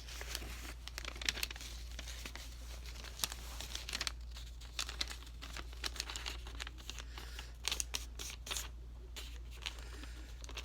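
Sheet of printer paper being handled and folded, with irregular crinkles and rustles and the quick scrape of a crease being pressed down.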